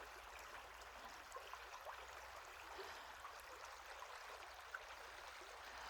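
Faint, steady running water of a small stream.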